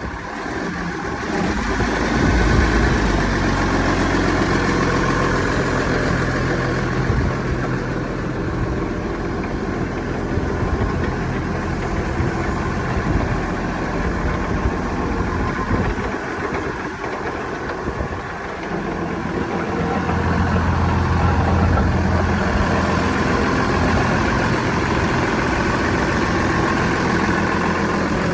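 Case IH 7110 MFD tractor's six-cylinder diesel engine running steadily, getting louder about two seconds in, easing off briefly past the middle and picking up again.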